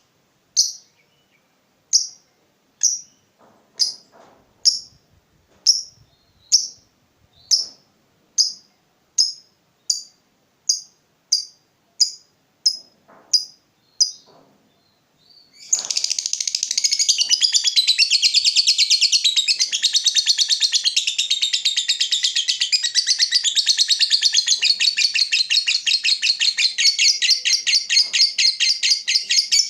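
Lovebird calling: single sharp chirps about one a second, coming a little faster toward the middle, then after a short pause a long unbroken rapid chatter, the drawn-out 'ngekek' call.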